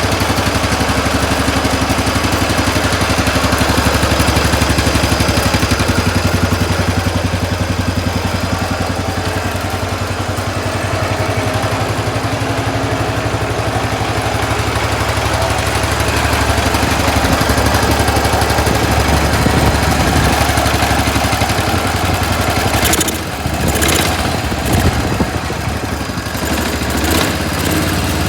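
Cub Cadet 1200 lawn tractor engine running steadily at idle, with a few sharp knocks or clunks near the end.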